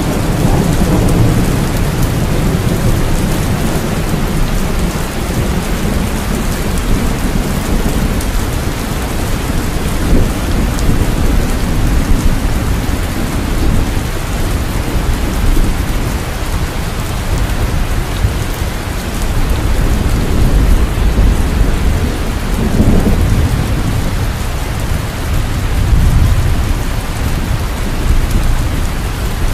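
Steady heavy rain, with low rumbles of thunder swelling up several times.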